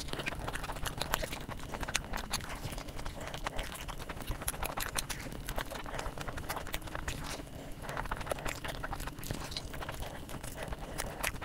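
Chewing and biting into curry-soaked samosa: a steady stream of irregular wet mouth clicks and soft crunches.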